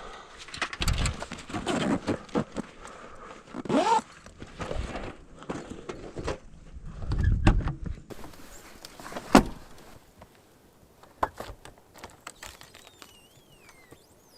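Camping gear and vehicle parts being handled and packed away: a run of knocks, clunks and rustles, with one sharp bang about nine seconds in, then a few lighter clicks.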